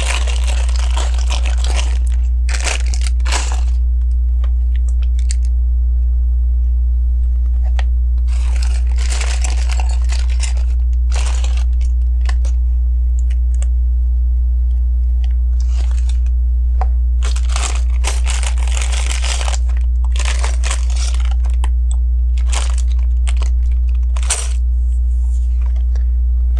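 Rummaging through plastic parts bags of LEGO pieces: repeated bursts of crinkling plastic and small clicks of bricks. Under it runs a steady low electrical hum.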